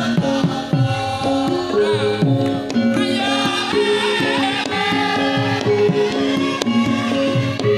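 Javanese gamelan music for a lengger mask dance: a kendang hand drum with pitch-bending strokes under repeated metallophone notes, and a wavering melodic line above.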